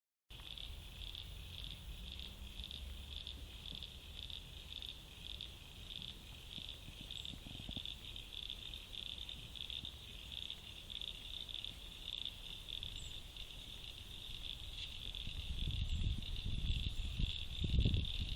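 A steady, high-pitched chorus of calling insects, pulsing about twice a second at first and then more continuous. A low rumble builds up over the last few seconds.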